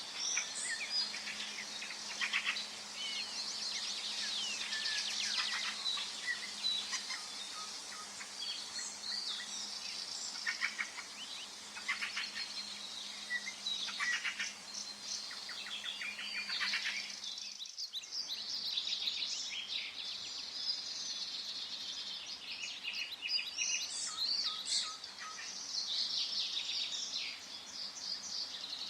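Several songbirds singing and calling together in a forest, a dense mix of overlapping chirps and trills. The sound briefly drops out just past halfway.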